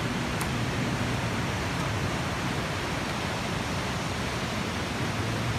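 Steady rush of white water from the River Esk's rapids, an even roar that holds level.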